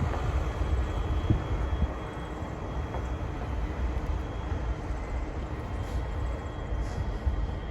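Freight grain train rolling past: a steady rumble of steel wheels on the rails with a few brief knocks.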